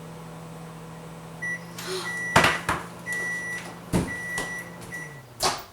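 Microwave oven running with a steady low hum while it beeps several times, with a couple of sharp knocks. About five seconds in, the hum winds down as the oven shuts off, followed by a click.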